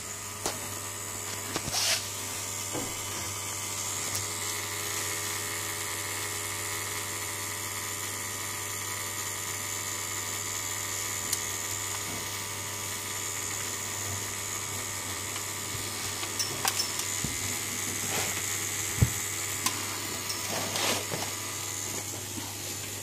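ADA aquarium filter running with a steady electrical hum, a low buzz with higher whining tones over it, and a few faint clicks. The hum is the fault being shown: the filter is humming louder than it should.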